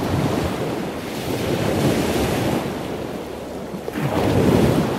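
Ocean surf: a rushing wash of water that swells and fades in slow surges, about three in all, the strongest near the end.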